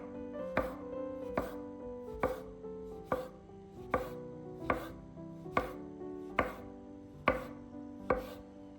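A kitchen knife chopping on a cutting board in slow, even strokes, about ten sharp knocks a little under a second apart, over soft piano music.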